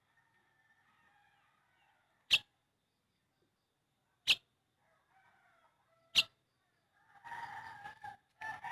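Three sharp clicks about two seconds apart, then a rooster crowing from about seven seconds in.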